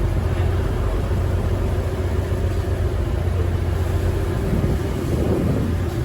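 Cross-river ferry boat's engine running steadily with a constant low hum.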